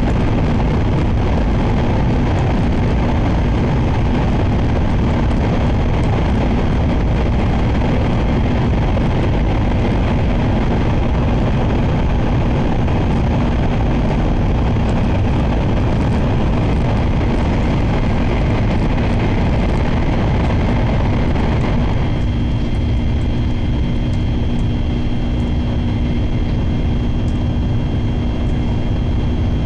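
Shinkansen train running at speed, heard from inside the passenger car: a loud, steady rushing rumble. About three-quarters of the way through, the higher rushing drops off and a steady hum comes through.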